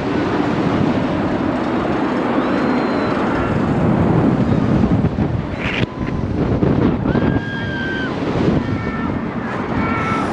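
Wind rushing over the microphone, a steady loud roar of air, as from riding high up on a swing ride. A few faint, thin high-pitched tones come through in the second half.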